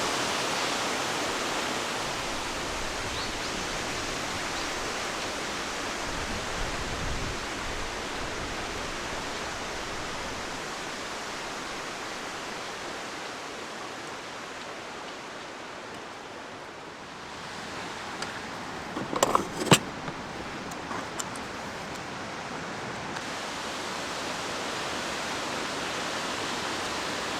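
Steady outdoor rushing noise, with a short cluster of sharp knocks about two-thirds of the way through.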